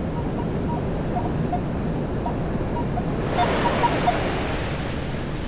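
Ocean surf washing on the beach with wind on the microphone; a wave surges in louder about three seconds in. A few short, high beeps from the metal detector sound over it, most of them as the wave comes in.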